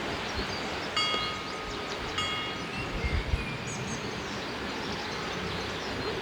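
A chime rings twice, about a second apart. The first ring lasts about a second and the second is shorter, over a steady background hiss.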